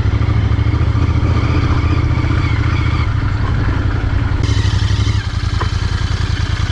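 Royal Enfield Continental GT 650's parallel-twin engine running while being ridden, its exhaust pulsing evenly. About five seconds in, the low exhaust note drops and the level dips briefly, as when easing off the throttle.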